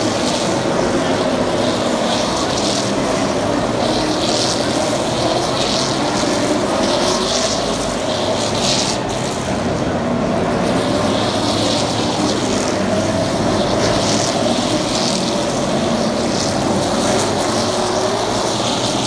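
NASCAR Xfinity stock cars' V8 engines running at racing speed, their pitch rising and falling as the cars lift and accelerate, with a hiss coming and going over them.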